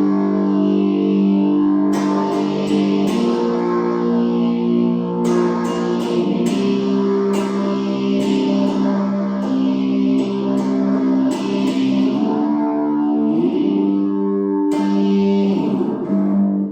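Homemade electric cigar box guitar strummed in sustained chords through distortion, with a slowly sweeping effect on the tone and a brief slide in pitch near the end; it stops abruptly.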